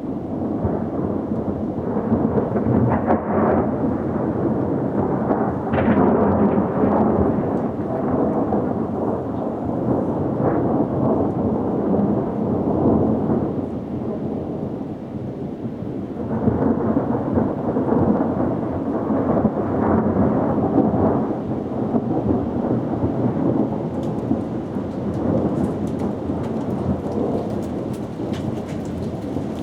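Thunder rumbling in long rolls over steady rain: one long roll swells early and dies away near the middle, and a second comes in a little past halfway. Near the end, sharp drops start pattering.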